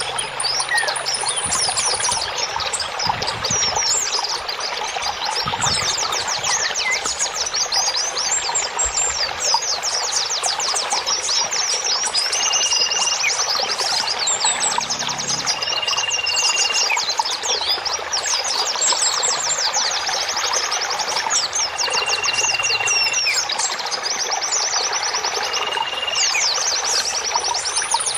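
Running water with many small songbirds chirping and trilling over it, and a clear held whistle of about a second that comes back every few seconds.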